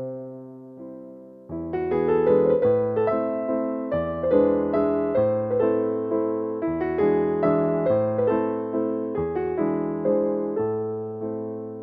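Soft piano music: sustained notes and chords, quiet for the first second and a half and then fuller.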